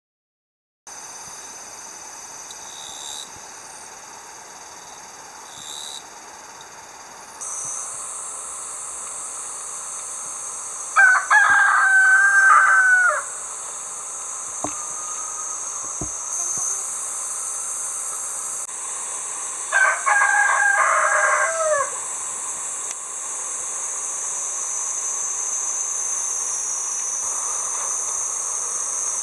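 A rooster crowing twice, each crow about two seconds long, over a steady high-pitched drone of summer insects.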